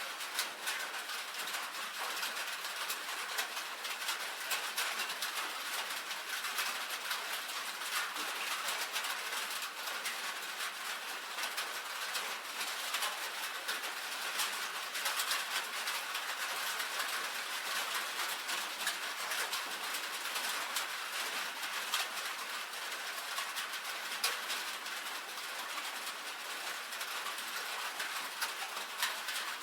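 Rain falling on a tin roof: a steady, dense patter of many small drop impacts tapping on the metal.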